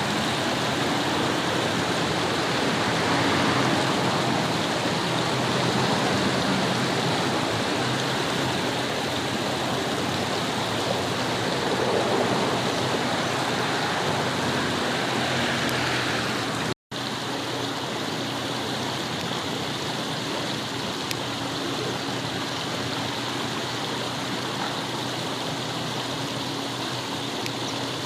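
River water flowing over stones: a steady rushing. It drops out for an instant about two-thirds of the way through, then carries on a little quieter.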